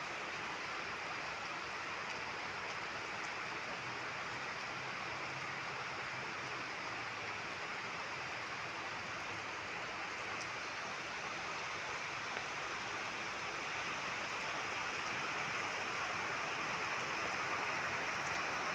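Steady rain falling in a dense, even hiss that grows a little louder near the end.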